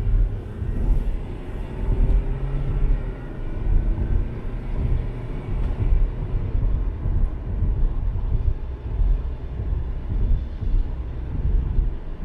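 Car driving on the road: a steady low rumble of engine and tyres, with the engine note rising in pitch over the first few seconds as the car speeds up.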